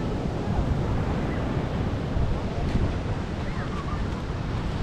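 Sea waves washing onto a beach under wind rumbling on the microphone, with faint voices in the distance.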